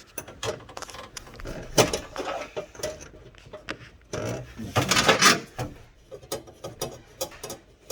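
Hand tools clicking and knocking on metal while a wrench loosens the nut on a line fitting at a light aircraft's firewall, with a sharper knock about two seconds in, a rustle of handling around five seconds and quick small ticks near the end.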